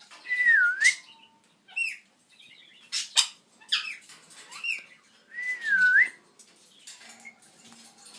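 Pet parrots whistling and chirping: two clear whistles, each dipping in pitch and rising back up, one near the start and one about two thirds of the way in, with short chirps between them.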